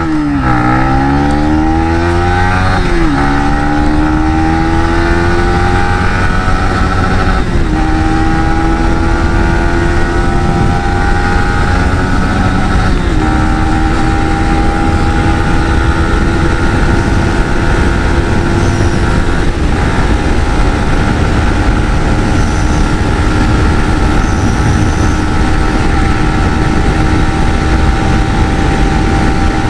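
Yamaha MT-15's 155 cc single-cylinder engine accelerating hard through the gears on a top-speed run. The pitch climbs in each gear, with a brief dip at each of four upshifts and each gear climbing more slowly than the last, then holds nearly steady at high revs for the last ten seconds.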